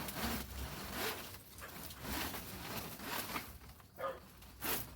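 Rustling and scraping of thorny brush being tugged and dragged, in a string of short, irregular scratchy rushes.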